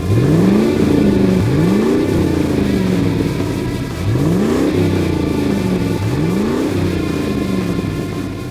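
A vehicle engine revving four times over a steady idle. Each rev rises sharply in pitch and then drops back slowly.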